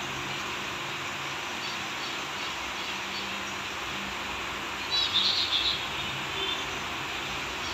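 A bird gives a quick burst of high chirps about five seconds in, with a few fainter high notes earlier, over a steady hiss.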